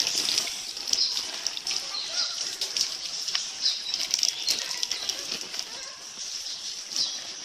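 Mosquito net fabric rustling and flapping as it is handled and shaken, an irregular crackle of many small rustles.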